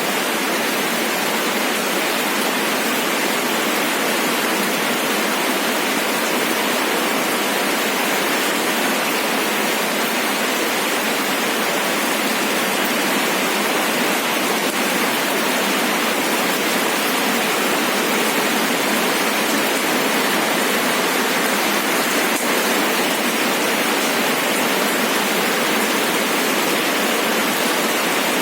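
Steady, even rain falling, a continuous rushing hiss without separate drops standing out.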